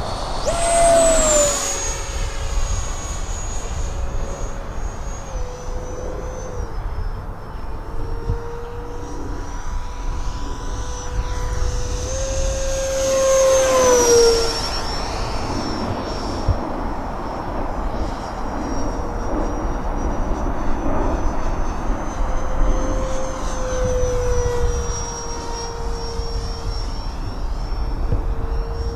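Electric ducted-fan RC jet, a Freewing A-4 Skyhawk, flying with a steady fan whine. Its pitch drops sharply as it passes close by, loudest about a second in and again near the middle, and it makes another pass near the end.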